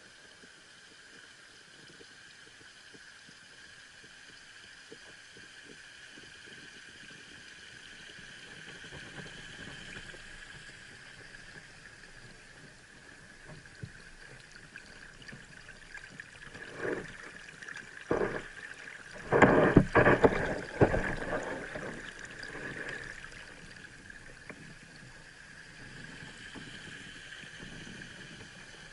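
Waterfall's steady rush of falling water, with a few loud thumps and rumbles about two-thirds of the way through.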